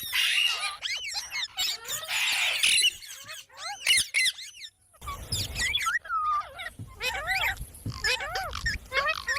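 Indian ringneck parakeets calling with quick squawks and chirps that rise and fall in pitch, over and over, with a short break a little before halfway. A hissing noise runs under the calls in the first few seconds.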